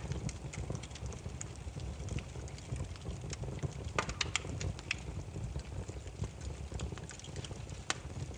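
Burning firewood crackling and popping over a low steady rumble of the flames, with a quick cluster of louder pops about four seconds in and a sharp single pop near the end.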